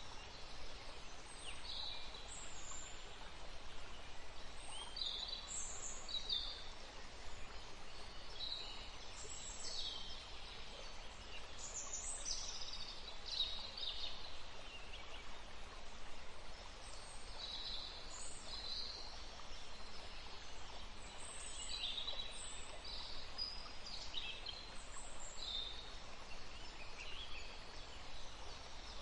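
Forest stream running steadily beneath birds singing, with many short high chirps and song phrases throughout.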